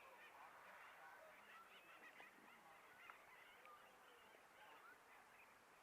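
Faint, scattered bird calls, many short chirps over quiet rural background.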